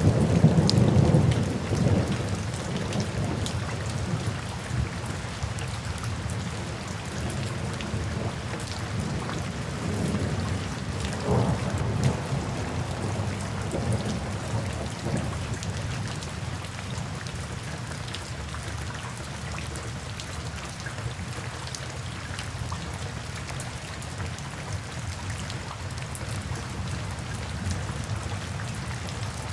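Steady rain with thunder rumbling, the rumble loudest in the first couple of seconds and again about ten to fifteen seconds in, then easing to rain alone.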